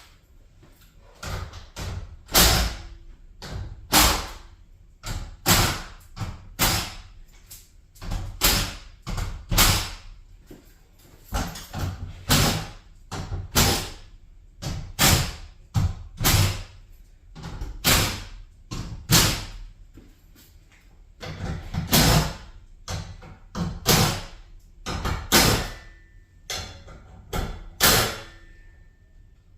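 Repeated loud bangs and knocks on a garage door's parts, about one every second or two, as the door is taken down.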